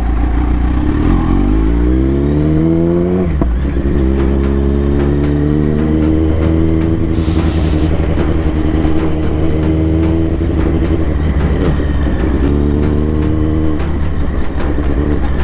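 Kawasaki Z900 inline-four engine pulling as the bike accelerates through the gears. It rises in pitch, shifts up about three seconds in, climbs slowly again, eases off, then rises once more before backing off near the end.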